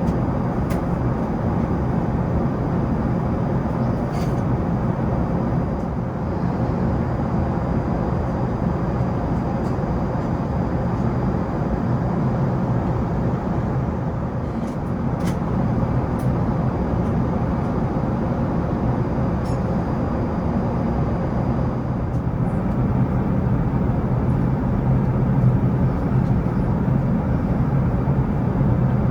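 Steady low rumble of engine and airflow noise inside an Airbus A380 cabin, with a few faint clicks.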